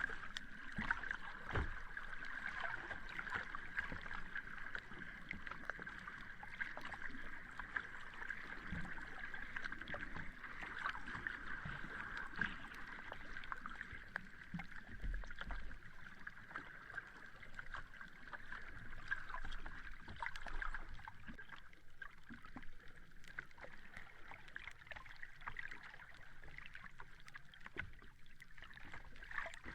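Sea waves washing on a beach: a steady wash of water noise dotted with many small crackles.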